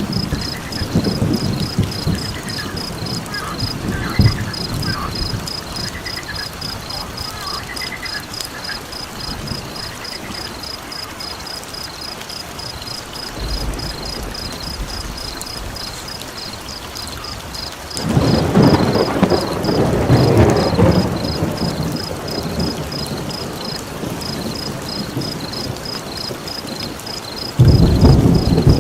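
Rain ambience with rolling thunder: a loud low rumble swells about 18 s in and another breaks near the end. Under it runs a steady high pulsing chirp, with a few short rising calls in the first third, likely frogs.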